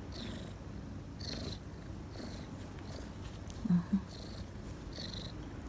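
Domestic cat purring steadily, with two brief, louder low sounds close together about three and a half seconds in.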